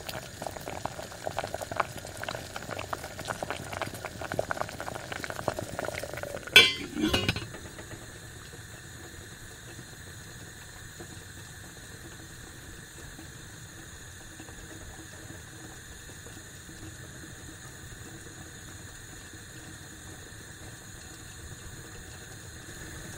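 Milk broth with beef boiling hard in a frying pan, a dense crackling bubble. About six and a half seconds in comes a brief loud clatter and splash as the radish slices go in, after which the pan settles to a quieter, steady simmer.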